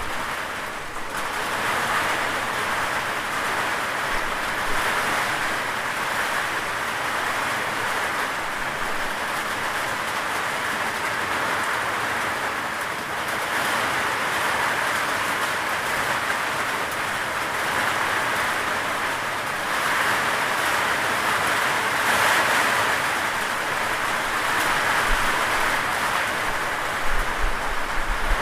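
Steady rain falling, an even hiss that swells gently now and then.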